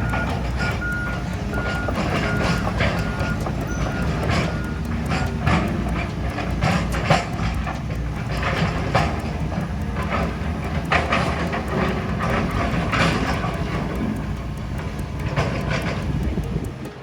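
Heavy demolition machinery working: a reversing alarm beeps about twice a second for the first five seconds, over a steady engine rumble and repeated irregular crashes and clatter of debris.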